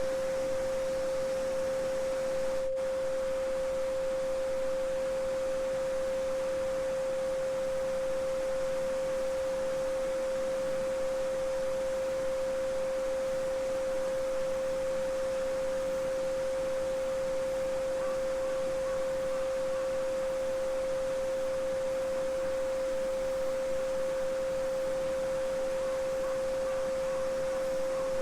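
A steady 528 Hz solfeggio sine tone, held unbroken, over the soft running sound of a small brook.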